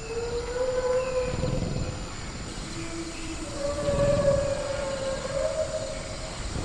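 Sound-designed dinosaur calls: two long, moaning, siren-like calls, each held for a couple of seconds and wavering slightly in pitch, with a low rumble swelling under each. A steady high insect drone, like crickets, runs underneath.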